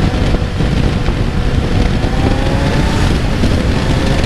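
Kawasaki Z900's inline-four engine pulling under acceleration, its note rising slowly, buried under heavy wind rush on the helmet microphone.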